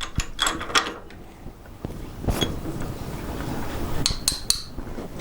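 Small metal objects clinking and tapping as steel parts and tools are handled on a workbench: several quick clicks at first, one about halfway, and a cluster of brighter ringing clinks near the end.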